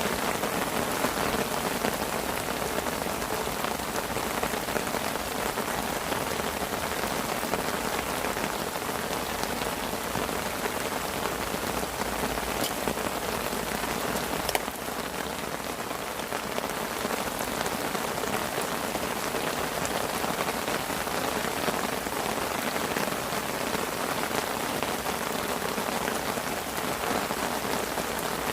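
Steady rain falling on a fishing parasol canopy, a dense even hiss with individual drops ticking through it.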